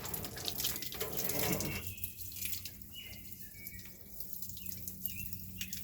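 Water from a garden hose running and splashing, louder for about the first two seconds and then fainter.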